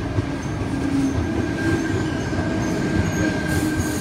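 Tangara double-deck electric train rolling slowly into the platform as it brakes: a steady rumble with a low motor hum and a thin, steady high-pitched wheel squeal.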